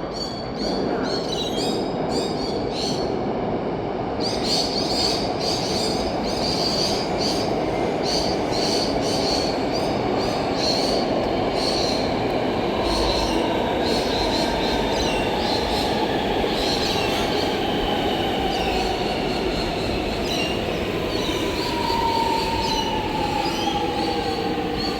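Electric suburban passenger train running through the station with a steady rumble of wheels on rail and regular clicks. Near the end a whine falls in pitch as it slows.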